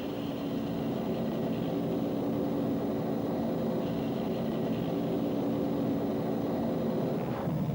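Bell UH-1 Huey helicopter running with a steady engine drone.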